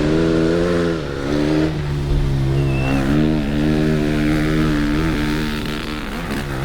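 Rally-raid motorcycle engine running at fairly steady revs, its pitch dipping briefly now and then.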